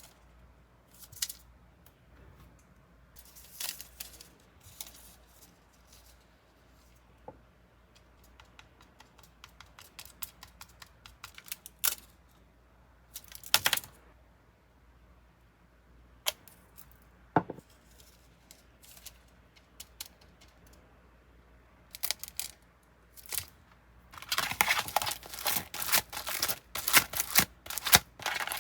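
Small plastic packages and items being handled: scattered clicks and taps, then about 24 seconds in a dense run of crinkling and tearing as plastic packaging is torn open.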